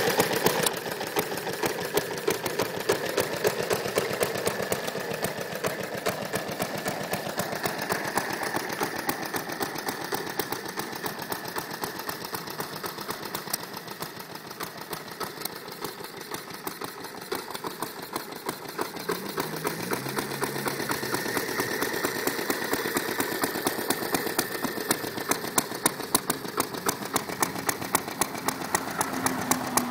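Small vintage Briggs & Stratton Model FI single-cylinder four-stroke engine on a reel mower running steadily with a quick, even train of exhaust pops. Louder at first, it fades to its quietest around the middle and then grows louder again.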